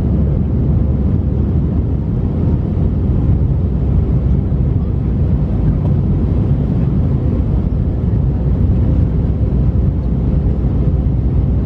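Steady low roar inside the cabin of an Airbus A319 in its climb after takeoff: engine noise and rushing airflow, even and unbroken.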